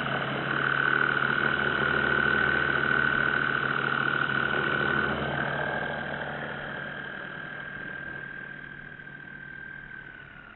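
Electric motor and propeller of a small RC model plane giving a steady high whine that fades over the second half, its pitch dropping slightly near the end as the plane moves away.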